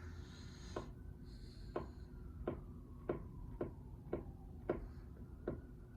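A series of about eight light clicks, unevenly spaced roughly half a second to a second apart, over faint steady background noise.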